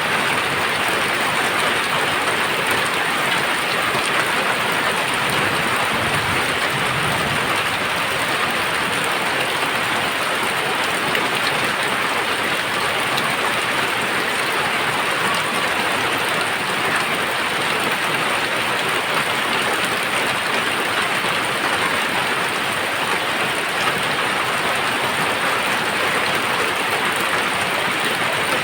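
Very heavy rain pouring down in a steady, even hiss.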